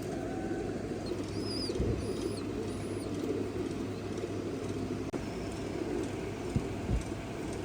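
Many domestic pigeons cooing together in a steady low chorus, with a few short high chirps between about one and three seconds in.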